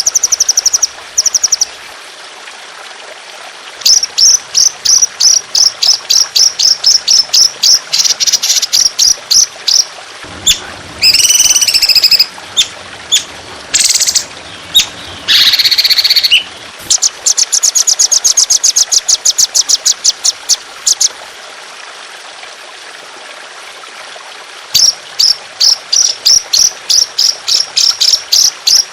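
Songbird singing long runs of rapidly repeated high, sharp notes, broken by a couple of harsh rasping calls, over a steady trickle of water.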